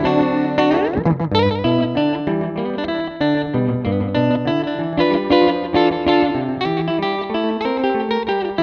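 Electric guitar played through a delay pedal: a melodic line of single notes and chords whose repeats overlap, with a quick slide in pitch about a second in.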